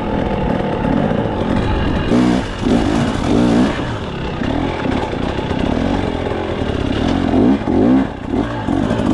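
KTM 300 XC TBI's two-stroke single-cylinder engine revving up and down again and again as the dirt bike is ridden hard, its pitch rising and falling about every half second to second, with a steady rush of wind and riding noise.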